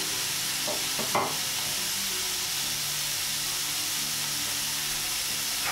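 Diced vegetables (onion, carrot and capsicum) sizzling steadily in oil in a stainless steel frying pan, with one brief louder sound about a second in.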